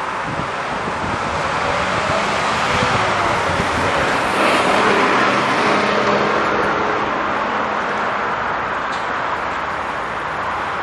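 Steady road traffic noise, with a passing vehicle swelling louder about four seconds in and fading by about seven seconds.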